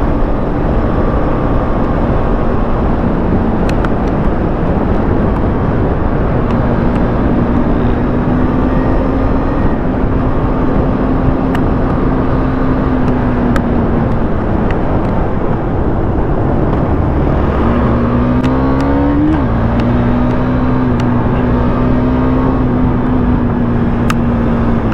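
Husqvarna Vitpilen 250's single-cylinder engine running at road speed over heavy wind noise. The engine note eases off for a few seconds past the middle, then climbs under acceleration and drops sharply with a gearshift about 19 seconds in before holding steady.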